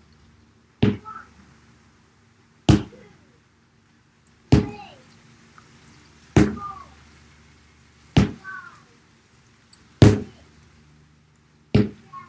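Sledgehammer striking a tyre seven times in an even rhythm, one heavy blow about every two seconds, each a sharp thwack with a short ring-off.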